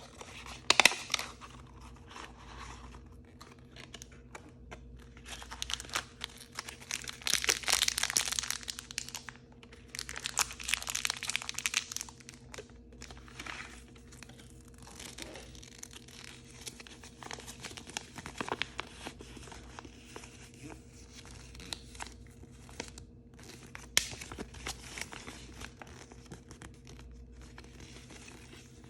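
Blind-bag packaging being crinkled and torn open by hand in irregular bursts of crackling. The loudest stretch comes about a quarter of the way through, another follows shortly after, and then come quieter handling crackles and a few sharp clicks.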